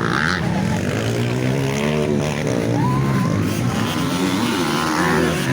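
Motocross dirt bike engines running and revving, more than one at once, their pitch rising and falling with the throttle.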